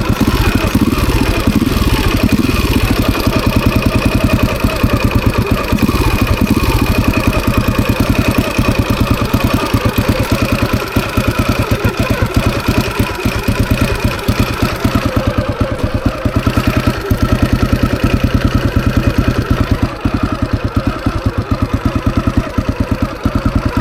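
Husaberg FE 350 single-cylinder four-stroke dirt bike engine running steadily at low speed, in gear with the clutch lever pulled in. The bike still creeps forward, a sign that the clutch is dragging and not disengaging.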